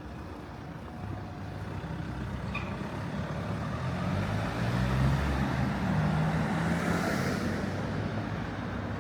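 A motor vehicle drives past close by, its engine and tyre noise growing louder to a peak about halfway through and then fading as it moves away.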